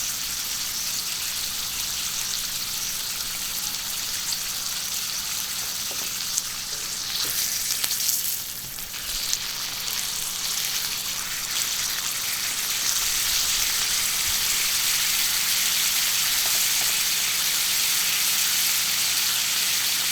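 Food sizzling steadily on a thick iron griddle plate over charcoal, growing louder from about halfway in.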